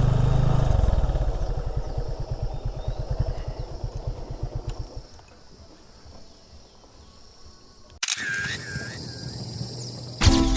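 Motorcycle engine running with an even low pulse, fading out about five seconds in. An abrupt cut near the end brings a brief wavering tone, and music starts just before the end.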